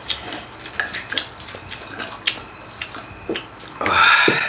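Small clinks and taps of glasses and tableware on the table while beer is drunk. Then, about four seconds in, a loud throaty "kha" exhale, the satisfied gasp a man gives after a swallow of cold beer, lasting about half a second.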